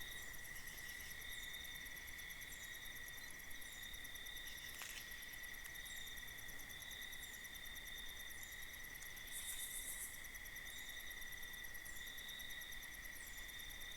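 Night insects, crickets among them, calling steadily: a constant high trill with a fast pulsing chirr above it and a short drooping chirp about once a second. A single faint click about five seconds in and a brief hiss near ten seconds.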